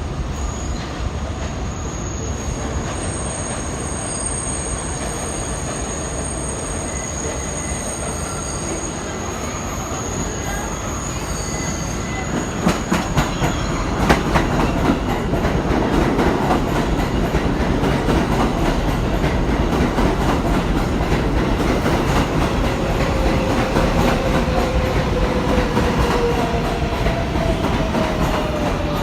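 R188 subway train running on the 7 line: a steady rumble with high wheel squeal in the first seconds. From about twelve seconds in it grows louder, with rapid wheel clatter over the rail joints, and a slowly falling tone near the end.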